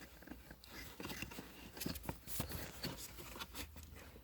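Small scattered clicks, taps and scrapes of hard plastic parts being handled: the arms and flap linkage of a car's heater flap positioning motor being fitted and moved.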